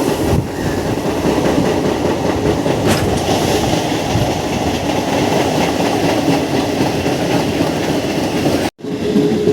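MEMU electric suburban train running on the track, heard from aboard: a steady rumble of wheels with clickety-clack over the rail joints. The sound cuts out briefly near the end, and a steady horn tone follows.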